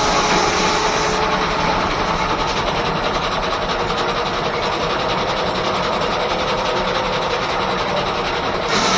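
Steam-engine-driven R.R. Howell circular sawmill running: a loud, steady, fast mechanical clatter. A faint steady whine fades out early on.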